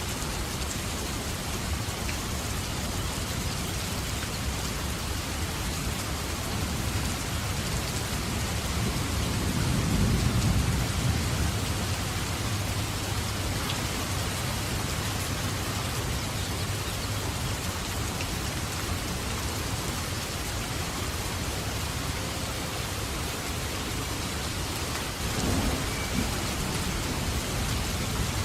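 Steady heavy rain, with distant thunder rumbling low: one roll swelling to a peak about ten seconds in and another starting near the end.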